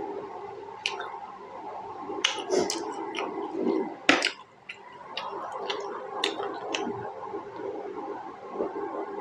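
Close-up eating of juicy pork momo dumplings: wet squishy chewing with sharp lip smacks and clicks at irregular moments, the loudest about four seconds in.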